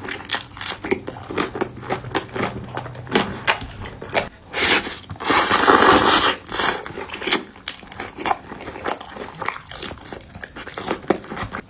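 Close-miked eating of Buldak fire noodles by hand: wet chewing and smacking, with a loud slurp lasting about a second and a half near the middle.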